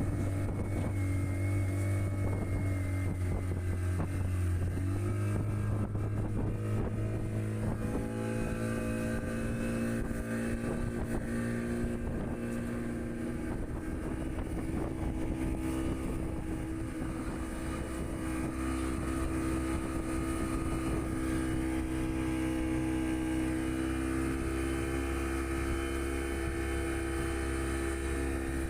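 Outboard motorboat engine running steadily under load as it tows a banana boat, rising in pitch a few seconds in and then holding. There is some wind noise on the microphone.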